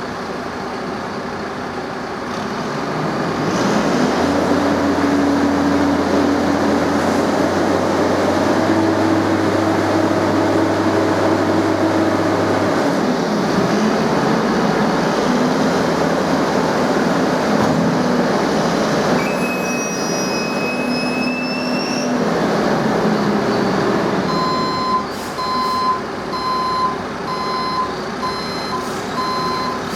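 A heavy diesel engine runs, its note shifting as it works, with a brief high squeal about twenty seconds in. Near the end a reversing alarm starts beeping at a steady, regular rate.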